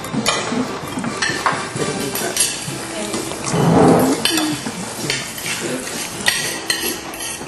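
Household kitchen clatter: dishes and utensils clinking and knocking against each other in many short, irregular hits, louder for a moment about halfway through.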